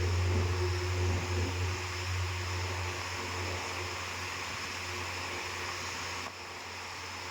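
A steady low hum under an even hiss, with a faint high steady tone; the hiss drops a little about six seconds in.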